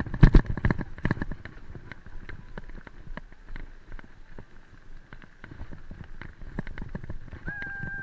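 Irregular clattering knocks and clicks, loudest in the first second. Near the end, a cat meows once, a held call that rises at its end.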